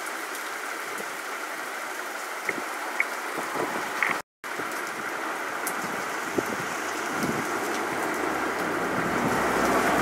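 Heavy rain falling steadily, with a few sharp drip ticks close by. The sound cuts out for a moment just after four seconds in, and a low rumble builds near the end.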